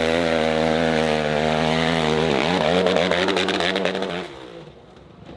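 Dirt bike engine running hard at high revs, its pitch wavering. The revs dip sharply about two seconds in and pick up again, then the engine sound dies away about four seconds in.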